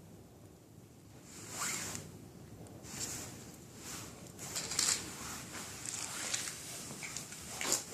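A series of short, scratchy rasps and rustles from matches and matchboxes being handled, like match heads scraped along a box's striker, with the loudest rasps about a second and a half in, around five seconds in and near the end.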